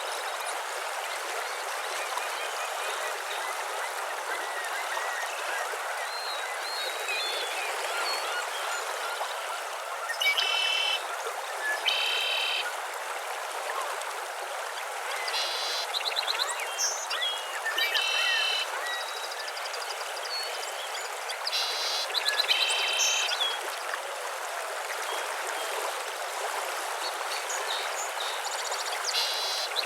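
Wetland dawn ambience: a steady rush of flowing water underneath birds chirping. About seven short, pulsed calls stand out from about ten seconds in and are the loudest sounds.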